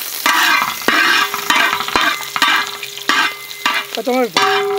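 Chopped ginger and garlic sizzling in hot oil with dried red chillies and mustard seeds in a large metal wok, a metal spatula scraping through them in repeated strokes. A steady low hum comes in about a second in.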